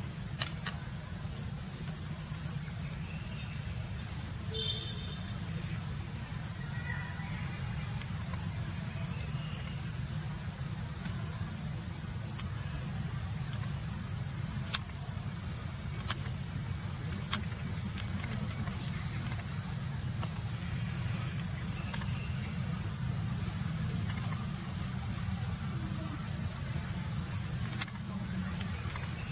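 Insects trilling steadily in a fast, high-pitched pulsing chorus over a low steady rumble, with a few sharp clicks.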